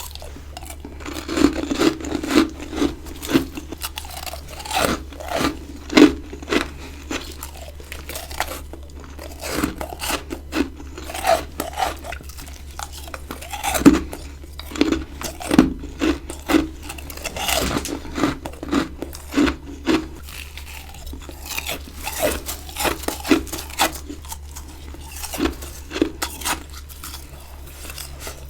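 Ice being bitten and crunched close to the microphone: a rapid, irregular series of sharp crunches from bite after bite, with a few especially loud bites.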